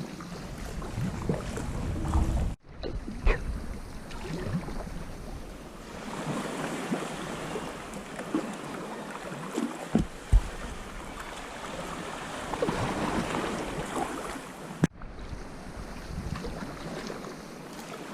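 Sea kayak under way: a paddle swishing and splashing through the water, with waves lapping and wind buffeting the microphone. There are a few sharp knocks, and the sound cuts out briefly twice.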